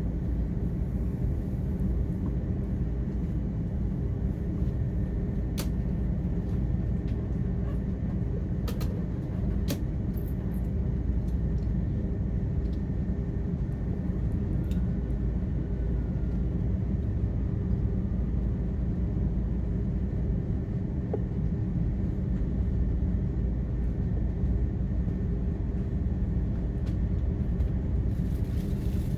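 Jet engines of an Airbus airliner heard inside the passenger cabin during take-off: a steady low rumble with a few light clicks and rattles from the cabin.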